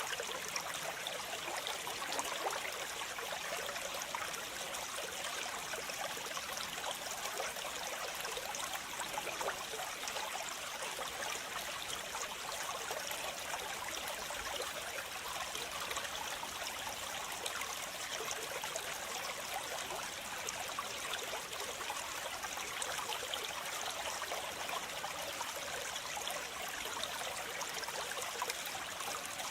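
Waterfall: water rushing and splashing steadily without let-up, a bright hiss-like sound with little low rumble.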